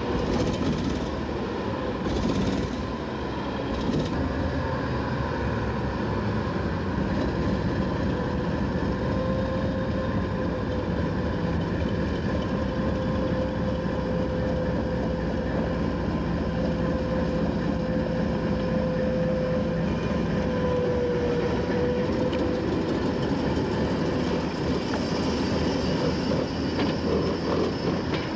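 Train running steadily along the track: a continuous rumble with a steady whine that wavers slightly in pitch.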